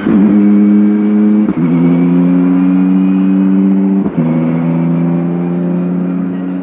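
BMW M4 GT3 race car's twin-turbo straight-six engine pulling hard under acceleration, with two quick upshifts, each a brief cut followed by a drop in pitch that then climbs again. The sound eases off slightly near the end.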